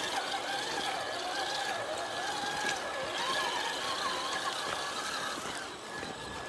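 Electric motor and drivetrain of a radio-controlled rock crawler whining, the pitch rising and falling as the throttle is worked, over a steady high whine.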